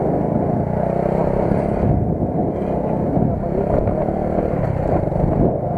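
Vehicle engine running under way, a steady loud rumble of engine and road noise.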